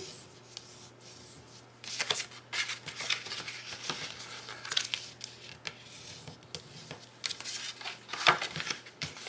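Cardstock being scored along its fold lines, with short, irregular scraping strokes, paper rustling and light knocks starting about two seconds in. The loudest knock comes near the end.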